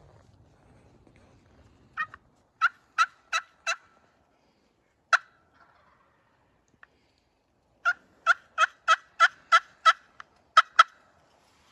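Turkey yelping: a run of about five sharp notes, a single note, then a longer run of about ten, roughly three notes a second.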